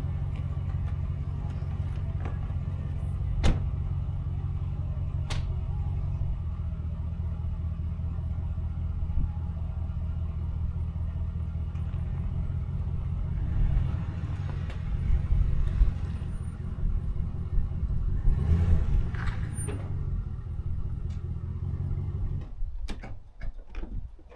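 Truck engine running while the truck is moved a short distance, the engine sound growing louder and uneven partway through, then switched off near the end, followed by a few clicks.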